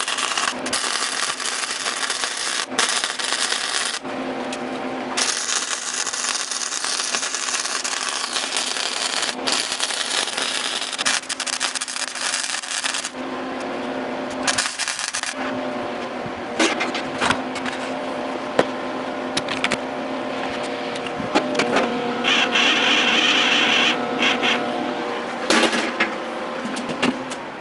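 Shop metalworking noise: a harsh steady hiss that stops and starts abruptly. It gives way about halfway through to a motor's steady hum with scattered clicks and a brief higher whine.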